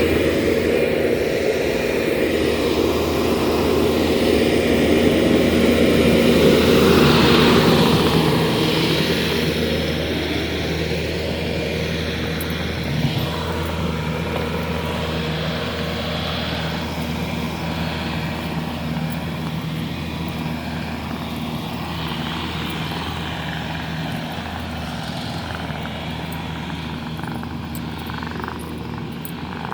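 Heavy-equipment engine running steadily with a droning hum, loudest in the first several seconds and then slowly fading.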